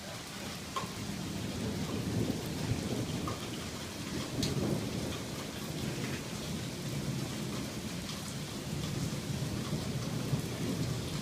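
Thunderstorm: steady rain falling under a low, rolling rumble of thunder that swells and fades, with a few sharp ticks of drops striking a nearby surface.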